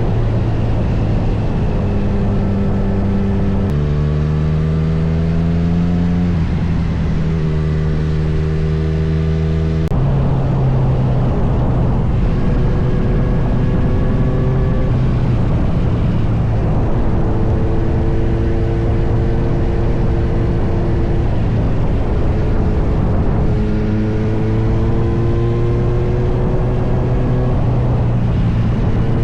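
Kawasaki Z900's inline-four engine running under way over steady wind noise. Its pitch shifts in steps and climbs several times as the bike changes gear and accelerates.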